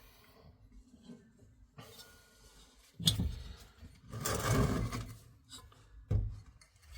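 Parts of a diesel heater being handled during disassembly: a knock about three seconds in, a longer scraping rustle a second later, and a short thump near the end.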